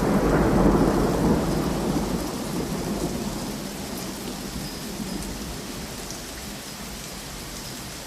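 Steady rain with a low rumble of thunder, loudest at the start and slowly fading away.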